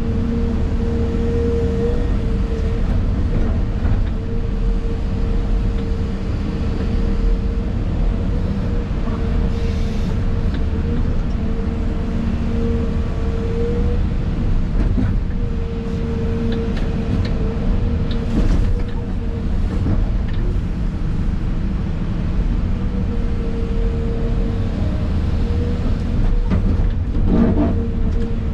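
Excavator diesel engine and hydraulics running steadily, heard from inside the cab, with a whine that fades in and out and a few brief knocks.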